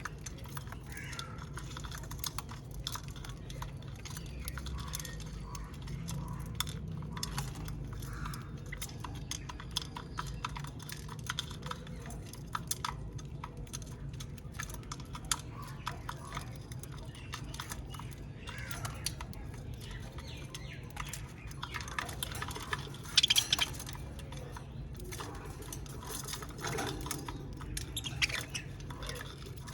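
Budgies cracking and nibbling sunflower seeds: many small quick clicks and ticks, with soft budgie chirps now and then and one short louder burst about two-thirds of the way through. A low steady hum sits underneath.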